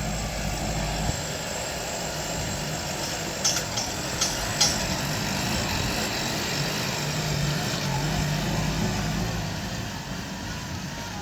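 Deutz-Fahr 5125G tractor's diesel engine running steadily, its low note shifting about a second in. A few short, sharp knocks come close together about three and a half to four and a half seconds in.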